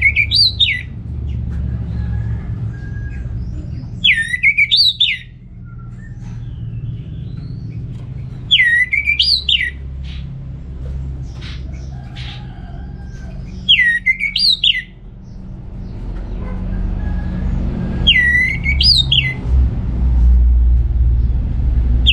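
Orange-headed thrush calling: the same short whistled phrase, dipping and then rising in a quick zigzag, repeated about every four and a half seconds over a steady low rumble.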